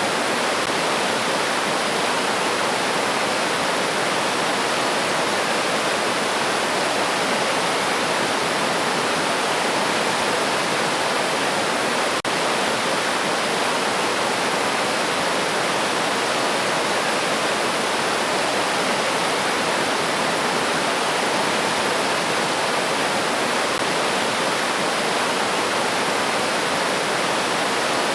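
River water rushing steadily over rocks, a constant even hiss of flowing stream water.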